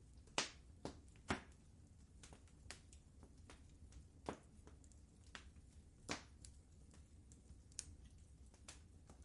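Wood fire crackling: sharp, irregular pops and snaps, a few louder ones near the start and about six seconds in, over a faint steady low noise.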